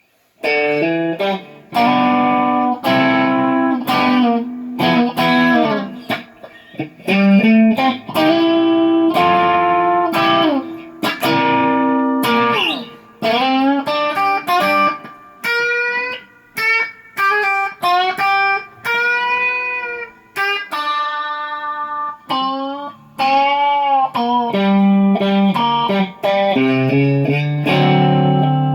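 Electric guitar playing a slow blues intro, single-note lead lines with many bent notes.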